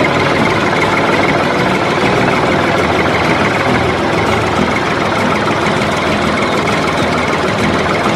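A motor running steadily and evenly.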